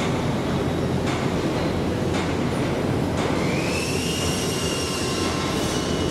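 Train running on the rails with a steady rumble, faint clicks from the wheels about once a second, and a high wheel squeal that rises about three seconds in and holds until near the end.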